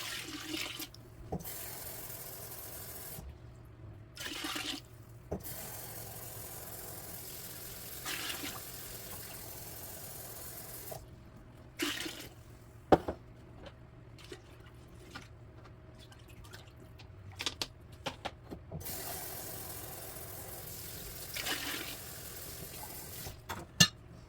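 Water running into a pot of rice in several long stretches as it is topped up, with a few sharp knocks between, the loudest about halfway through and near the end.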